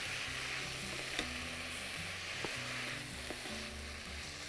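Chicken strips, bell peppers and onion sizzling in a hot nonstick frying pan as they are stirred with a wooden spatula. There is a steady sizzle with a few light clicks of the spatula against the pan.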